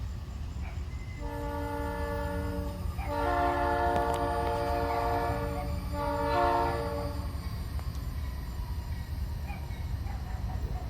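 Diesel locomotive air horn on a GE B39-8E sounding three blasts, a shorter one, then a longer one of about two and a half seconds, then a short one, over the steady low rumble of the train.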